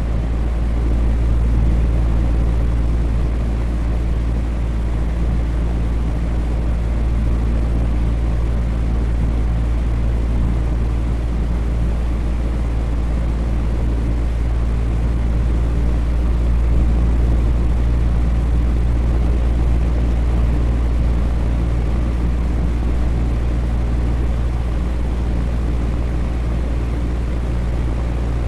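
Electric fan running steadily, a low motor hum under an even rush of air.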